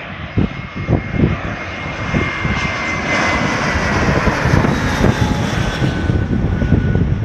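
Airplane on landing approach passing close overhead, its engine noise loud and steady. A high whine slides slowly down in pitch as it goes by.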